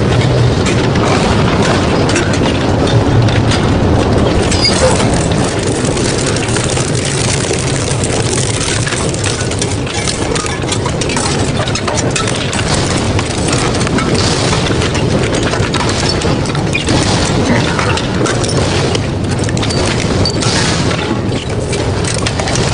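Double-shaft metal shredder running under load, its rotating cutters crunching and tearing through scrap metal in a dense, continuous stream of cracks and bangs over a steady low drone.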